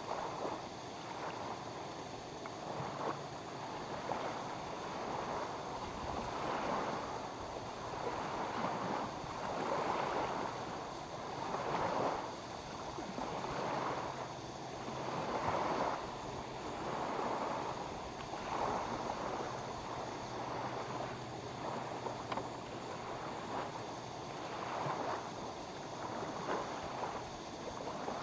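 Small waves lapping at the lake shore, a soft splash every second or two.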